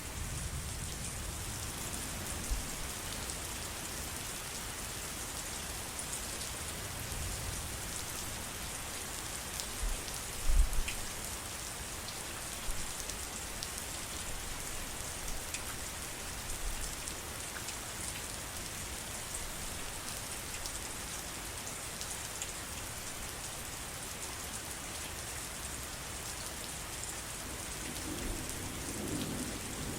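Steady rain falling, an even hiss of drops on surfaces, with a few short low thumps, the loudest about ten seconds in, and a low rumble building near the end.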